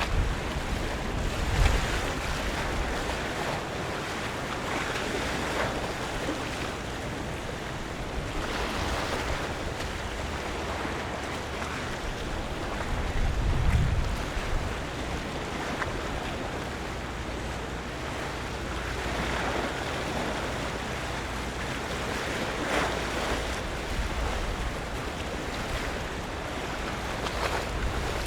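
Harbour water washing and lapping in swells every few seconds, with wind buffeting the microphone in gusts just after the start and again around 13 to 14 seconds in, over a faint low steady hum.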